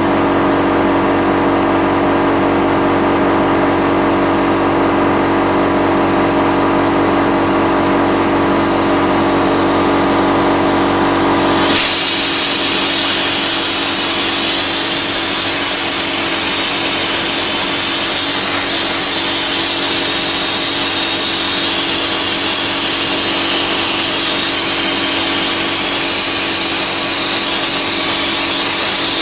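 A two-cylinder, 3 hp piston air compressor runs with a steady hum. About twelve seconds in, a loud hiss starts suddenly and holds: the sandblasting tank is opened up and blasting, with the compressor still running under it.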